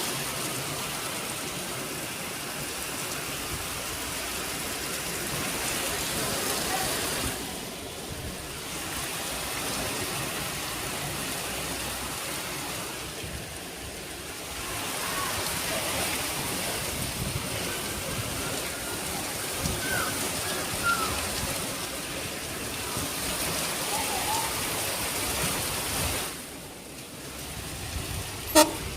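Heavy rain falling steadily, with a dense, even hiss that drops away briefly three times. A sharp click near the end.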